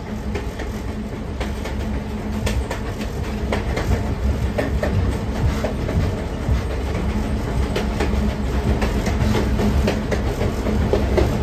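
Train running along the track: a steady low rumble and hum, with irregular clicks and knocks from the wheels over the rails.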